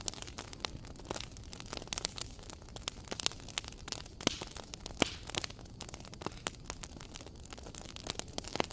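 Fireplace fire crackling: a constant scatter of small, irregular pops and snaps over a soft hiss, with a few louder snaps standing out.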